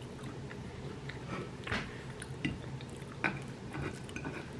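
A person chewing a mouthful of food close to the microphone, with a few light clicks scattered through.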